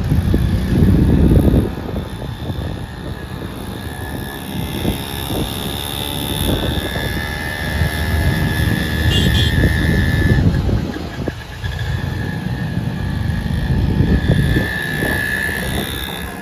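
Motorcycle riding in traffic, its engine noise mixed with heavy, uneven wind buffeting on the microphone.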